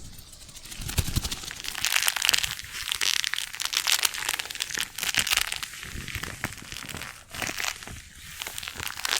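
Close-miked crinkling and crackling, a dense run of small crackles from something crinkly being scrunched and handled, starting about a second in.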